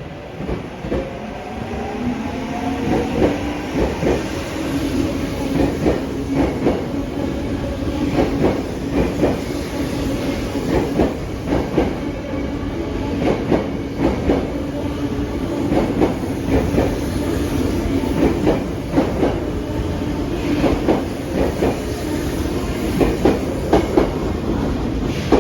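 Tokyo Metro 05 series electric train pulling away: its traction motors whine, rising in pitch over the first few seconds, then settle into a steady hum as it runs on, with a regular clatter of wheels over the rail joints.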